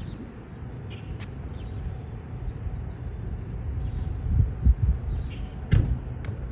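Wind buffeting the microphone in uneven gusts, a low rumble that swells strongest in the second half, with faint bird chirps above it.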